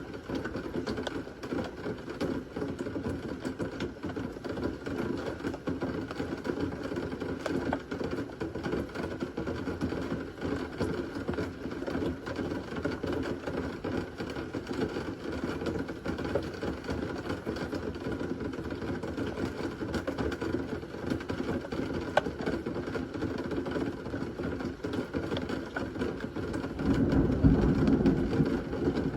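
Steady rain from a thunderstorm, a dense even hiss with fine patter. A low rumble swells up near the end.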